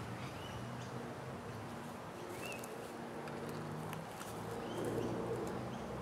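Birds calling in the background: a few short rising chirps spaced a second or so apart, over a faint steady low hum.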